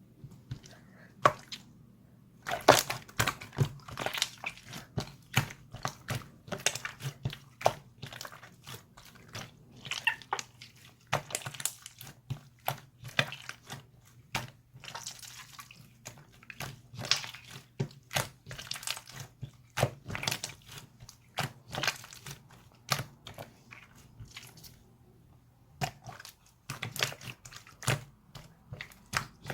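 Slime being pressed and squished by hand, giving a dense run of crisp crackles and pops, with brief quieter pauses near the start and about two-thirds of the way through.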